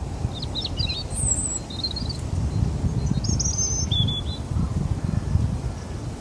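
Small birds calling, a scatter of short high chirps and twitters, over a gusty low rumble of wind buffeting the microphone.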